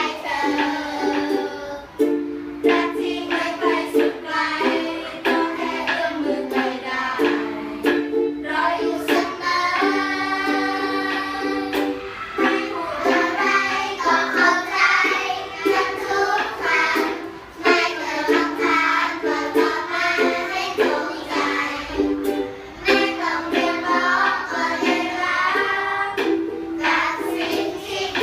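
Voices singing a song to a strummed ukulele, the chords changing every second or so.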